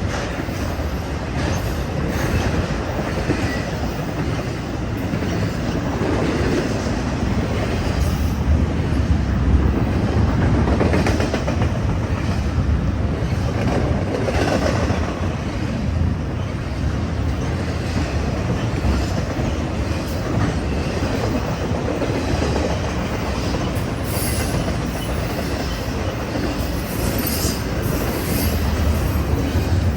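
BNSF eastbound intermodal freight train rolling past: a steady, continuous noise of steel wheels running on rail, with a few brief high-pitched streaks near the end.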